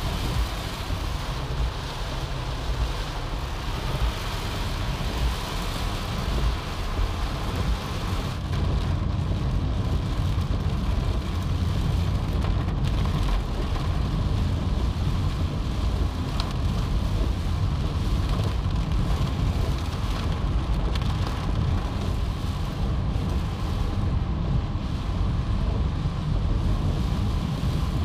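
Coastal storm: heavy rain and strong wind with big waves breaking, a steady rushing noise under a heavy low rumble.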